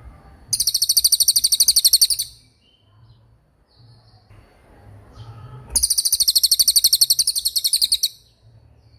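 Small songbird giving two long, very fast, high trills of the rolling kind used in masteran recordings, each lasting about two seconds, with faint softer notes in the gap between them.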